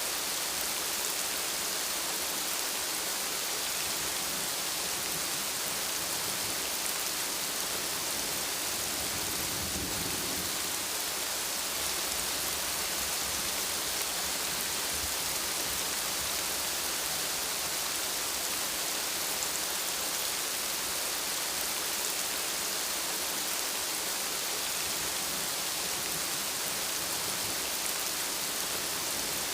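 Steady rain falling, a dense, even hiss with no let-up, and a brief swell of low rumble about ten seconds in.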